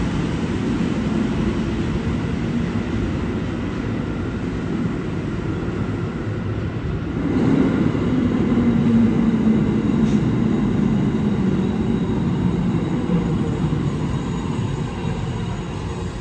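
New York City Subway A train running through an underground station: a steady rumble with a motor hum, swelling about seven seconds in with a tone that slowly drops in pitch.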